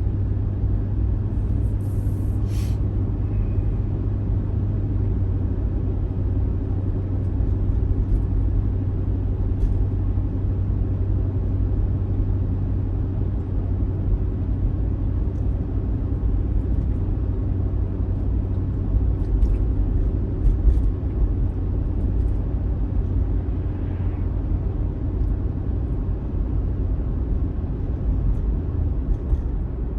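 Steady engine and road drone of an old GM vehicle heard from inside the cab while cruising, with a few faint ticks and rattles now and then.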